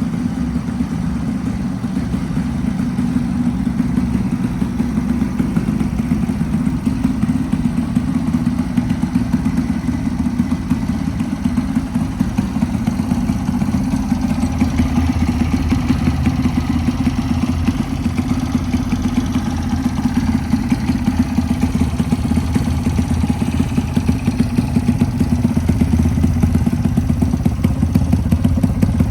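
Honda Chaly small four-stroke single running through a one-off steel exhaust pipe, idling steadily with a quick, even exhaust beat.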